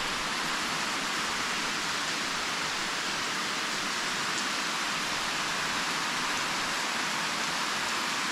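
Waterfall on a rocky creek: a steady rush of falling water.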